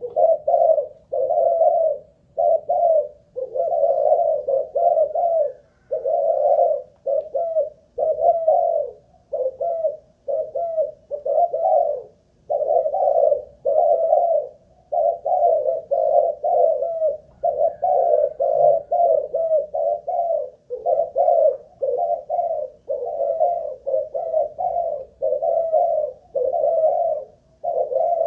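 Spotted dove (Malaysian-line cu gáy) cooing phrase after phrase, about one a second, with hardly a pause between them. This is a show of the bird's staying power in song.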